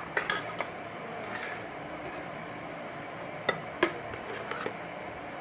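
A spoon clinking and scraping against a cooking pot as the remaining rice is spooned in, a few sharp clinks, the loudest near four seconds in, over a steady background hiss.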